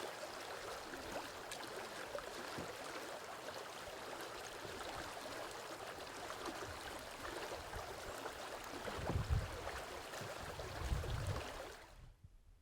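River water rushing and gurgling, a steady noisy wash with small splashes, broken by two short low rumbles near the end before the sound cuts off abruptly.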